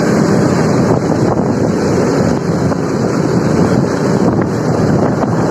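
Steady wind noise buffeting the microphone over a motorcycle running along at speed.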